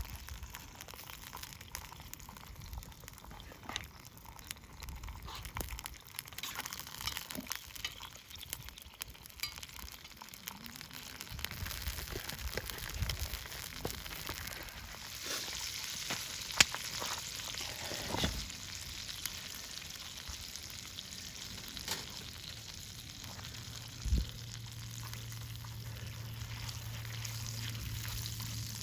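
Food sizzling and frying in a hot pan, with scattered small crackles and a few sharp knocks. A low steady hum comes in near the end.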